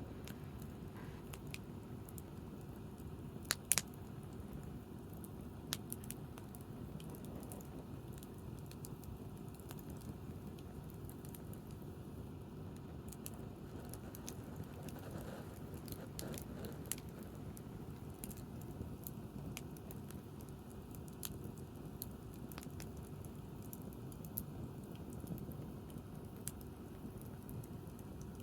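Wood campfire burning, with scattered crackles and pops over a steady low background noise; the sharpest pops come close together about three and a half seconds in.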